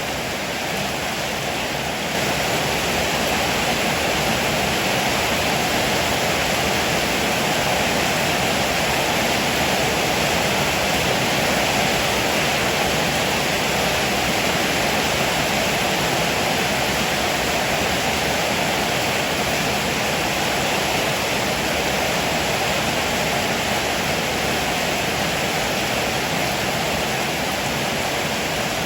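Heavy rain pouring steadily, an even dense hiss that grows a little louder about two seconds in.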